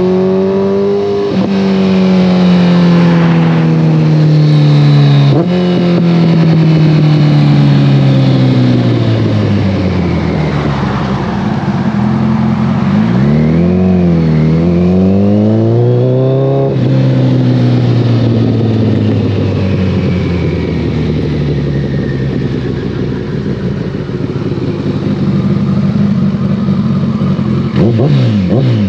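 A 2014 Kawasaki ZX-14R's inline-four engine through a full Brocks Alien Head 2 exhaust, heard from the rider's position. It revs up and drops in pitch at a gear change about a second in, then winds down as the bike slows, with sharp jumps in pitch at downshifts. It pulls up again and shifts near the middle, then cruises at a fairly steady note, with a quick swoop down and up near the end.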